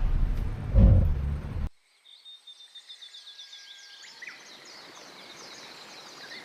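A vehicle running with a low rumble and a louder thump about a second in, which cuts off abruptly. After a moment of silence come repeated high chirps of small birds over a faint background hiss.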